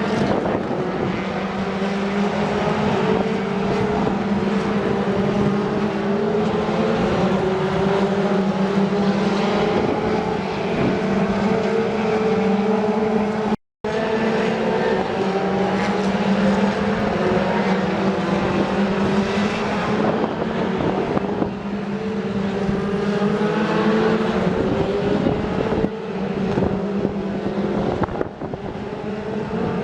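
British Touring Car Championship race cars running on the circuit, their engines climbing in pitch and dropping back again and again as they accelerate through the gears, over a steady engine drone. The sound cuts out briefly about halfway through.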